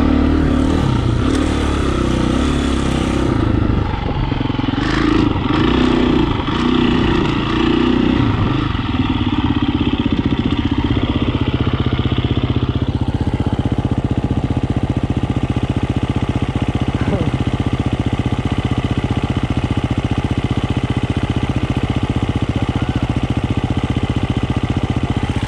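Dirt bike engine running, its pitch rising and falling unevenly for the first several seconds, then holding a steady note for the second half.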